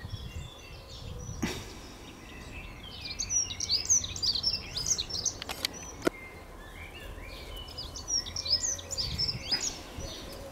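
A songbird singing outdoors: two bursts of rapid, high chirping phrases, one a few seconds in and another near the end, over a low background rumble of outdoor noise, with a couple of sharp clicks.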